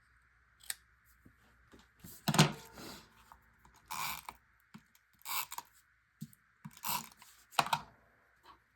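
Paper being cut and handled: a string of short, crisp snips and rustles at uneven intervals, the loudest about two and a half seconds in.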